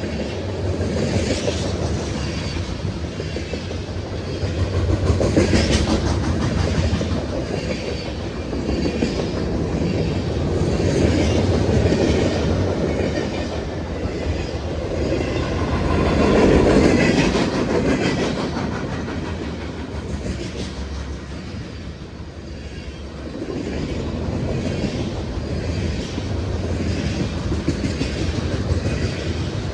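Train cars rolling past, steel wheels rumbling and clattering over rail joints with a steady clickety-clack. The sound swells and eases as the cars go by.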